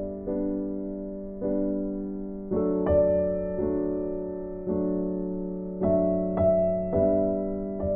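Slow, gentle piano background music: soft notes and chords struck about once a second, each ringing and fading.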